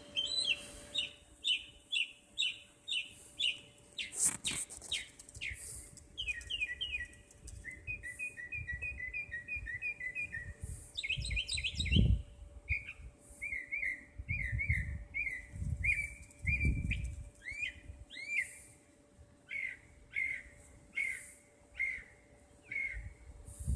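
A songbird singing a long varied song: short chirping notes repeated in quick series, the phrase changing every few seconds. A faint steady hum and a few low rumbles lie under it.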